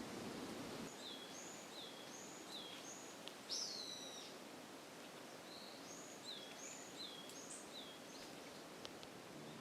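A bird singing outdoors: two series of three or four quick repeated notes, each dropping sharply in pitch, over a steady background hiss.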